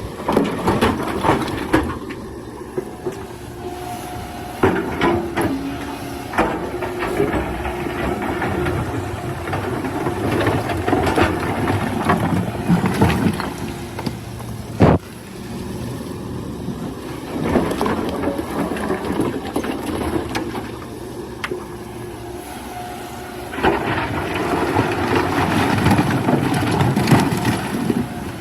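Excavator working, its engine running under changing load with stretches of scraping and clattering. There is a single sharp knock about halfway through.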